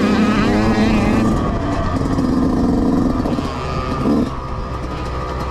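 Mini dirt bike engines racing past: revving up and down, then running more steadily and a little quieter after about four seconds.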